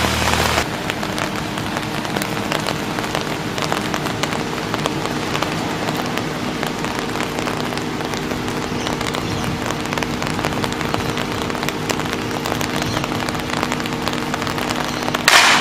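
Steady pattering hiss of light rain on concrete over a steady multi-tone machinery hum. Near the end comes a short loud crash: the Fluke 28-II multimeter hitting the ground after a 12 m drop.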